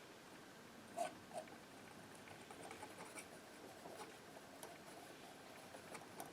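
Near silence with a painting knife working quietly: two soft taps about a second in, then faint light scraping of the blade on the paper and palette.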